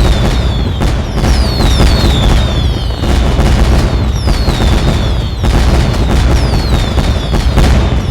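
Fireworks going off in quick succession: a dense run of bangs and crackling over a steady low rumble, with many short falling whistles repeating every second or so.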